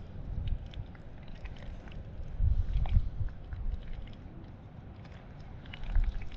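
Wind buffeting the microphone in uneven gusts, with scattered sharp crackling clicks over it.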